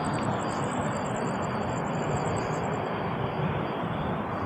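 Steady rushing noise of wind and rolling while riding a Commander Pro electric unicycle, with a faint high-pitched pulsing whine above it that fades about three seconds in.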